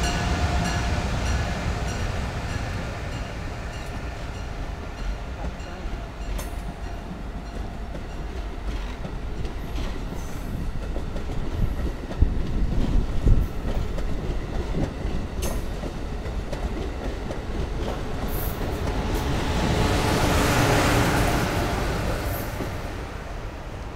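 Amtrak Acela Express trainset passing close by: a steady rumble of wheels on rail with clicks as the coaches roll over the track, a few sharper knocks about halfway through, and a swell of noise near the end as the rear power car goes by.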